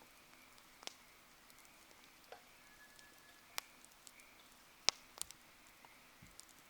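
Wood campfire crackling: scattered sharp pops and snaps, the loudest about five seconds in.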